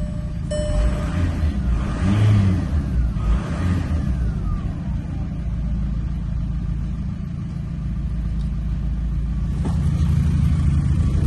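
Skoda Octavia 1.9 TDI PD (BKC) four-cylinder diesel engine running on a test, blipped twice about two and three seconds in, with a whine falling in pitch as the revs drop back to a steady idle. A dashboard chime beeps once at the start.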